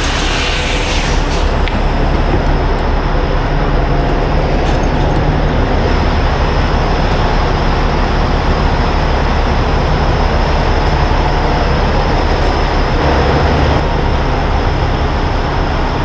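A diesel engine running steadily at idle, a constant low drone with a noisy hiss over it.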